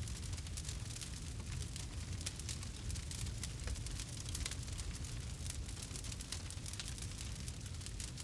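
Campfire crackling: a dense run of small pops and snaps over a steady low rumble of the burning fire.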